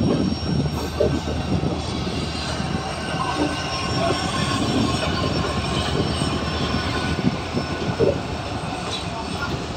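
A moving passenger train heard from aboard: a steady rumble of wheels running on the rails, with a faint high squeal of the wheels at times.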